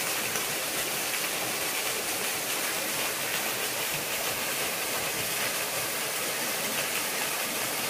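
Small waterfall: steady, unbroken rush of falling water.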